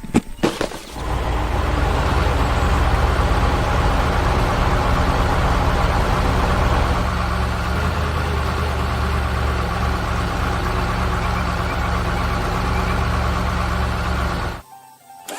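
Heavy construction-vehicle engine running steadily. It comes in about a second in and cuts off suddenly near the end.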